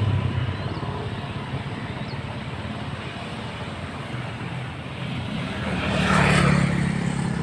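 Road traffic: a motor vehicle's engine running and passing close, growing louder about six seconds in.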